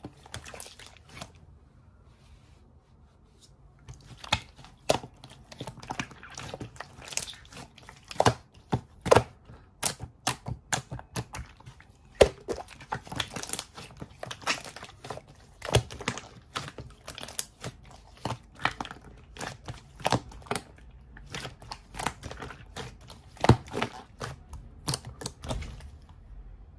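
Close handling noises: crinkling and tearing with many sharp taps and clicks, thinning out for a couple of seconds near the start and then dense again.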